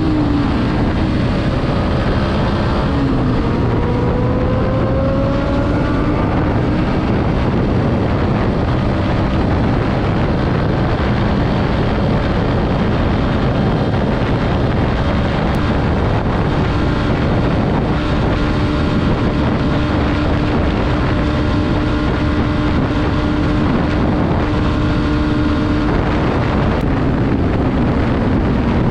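Motorcycle engine under way, with heavy wind rush on a helmet-mounted camera. The engine note climbs in pitch over the first few seconds as the bike accelerates, then settles into a steady cruise.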